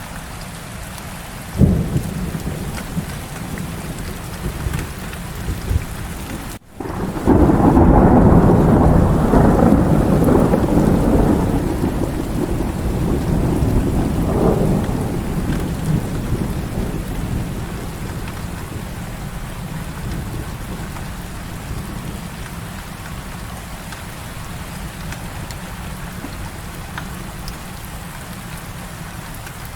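Heavy rain falling steadily. A short low crack comes about a second and a half in. About seven seconds in, a long roll of thunder swells up, rumbles for several seconds and slowly fades back under the rain.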